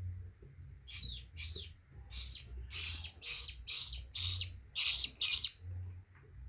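Baby parrot chicks calling: a quick run of about ten short, high chirps from about a second in until about five and a half seconds in.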